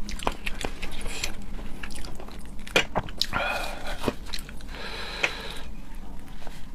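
Close-miked mouth sounds of a person eating seafood: chewing and biting with many sharp clicks, and two longer sounds around the middle.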